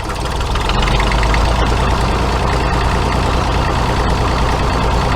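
Tractor-type engine idling steadily, a deep, even drone that settles in after a slight rise in the first second.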